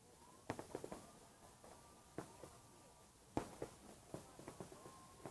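Distant fireworks going off: a scatter of sharp pops, several in quick succession about half a second in, then single bangs every second or so.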